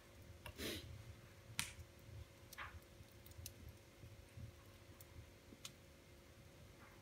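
Wood fire in a fireplace crackling faintly, with a few sharp pops spaced about a second apart over a low rumble.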